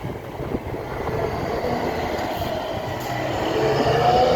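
Scania K360IB coach's diesel engine running through a free-flow exhaust, a deep pulsing drone that grows louder, with its pitch rising near the end as the engine revs up.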